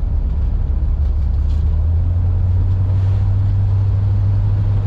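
Inside the cabin of a moving 1956 Ford Thunderbird: the Y-block V8 runs with a steady low hum along with road noise. The engine note rises slightly about two seconds in.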